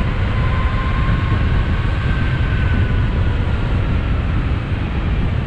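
Wind rushing over the microphone of a fast-moving e-bike, a loud steady rumble, with a faint high whine beneath it.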